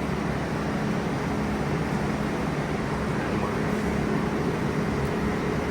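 Steady hum and rumble of a subway train standing stopped in a station, with a low steady tone under it.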